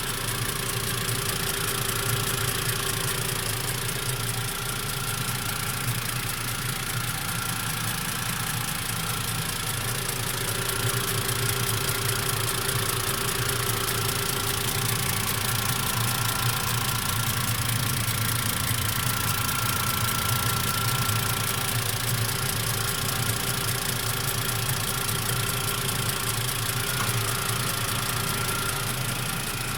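Warm Mitsubishi MIVEC engine idling steadily, carrying the extraneous noise that appears after warm-up. A faint high whine fades in and out over the idle.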